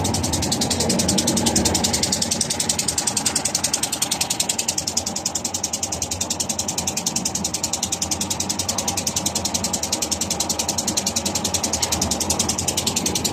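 Air-cooled Lister Petter diesel engine of a Winget 400R concrete mixer running steadily, with a fast, even mechanical clatter.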